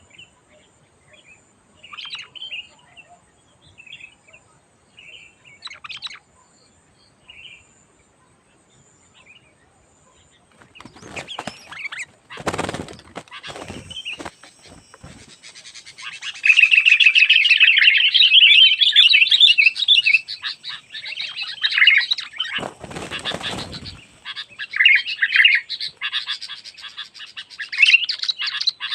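Sooty-headed bulbuls calling: short, scattered chirps at first, then from about halfway a loud, continuous, excited chattering. There are two stretches of rustling, flapping noise, one before the chattering starts and one a few seconds into it.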